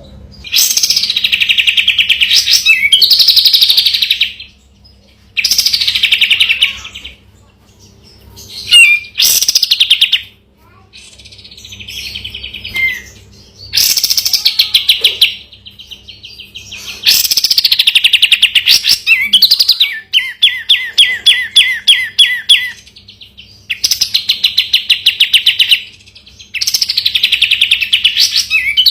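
Sooty-headed bulbul (kapas tembak) singing about nine loud phrases of fast, rattling trills, each lasting one to three seconds with short pauses between them.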